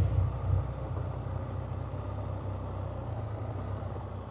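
Can-Am Spyder three-wheeler's engine running steadily at low revs, a low even hum with no revving.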